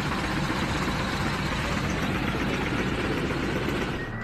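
Loud, steady roar and shaking rumble inside the cabin of an AirAsia X Airbus A330 flying on after an engine failure, the violent vibration that passengers likened to a washing machine; the pilot believed a turbine blade had broken off inside one engine. It cuts off just before the end.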